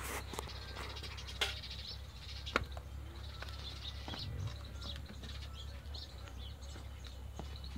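Small birds chirping in the background over a steady low hum, with two sharp clicks, about a second and a half and two and a half seconds in.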